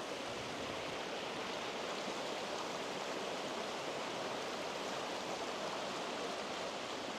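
A mountain stream rushing steadily, an even, unbroken sound of water.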